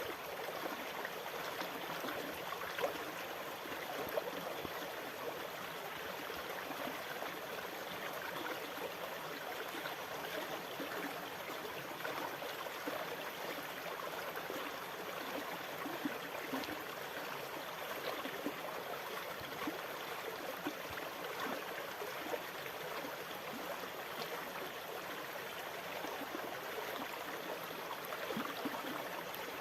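Moving water: a steady, continuous rush with small gurgles and splashes, without the rise and fall of breaking waves.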